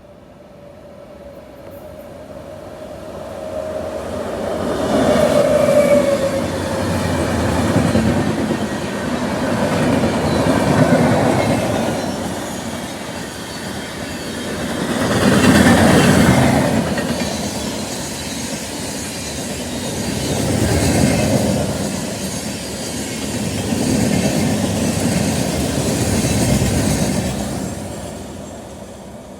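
A train passing close by on Indian Railways track. Its rumble builds over the first few seconds, then swells and eases in waves as the coaches roll past, and dies away near the end. A steady tone at the start fades out about five seconds in.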